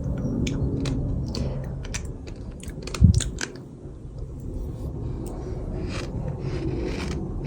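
Sifted sand crunching and shifting: a steady low rumble with scattered crisp crunches, and one heavier thump about three seconds in.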